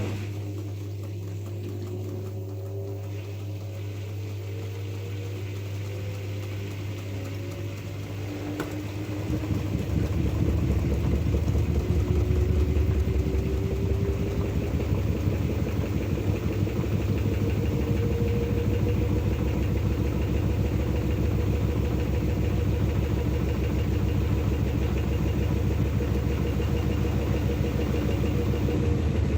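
LG F12A8ND front-loading washing machine spinning its drum up: the motor whine rises steadily, the machine gets louder about nine seconds in as the drum reaches spin speed and holds there with a steady whine and rumble, and the pitch starts to drop near the end.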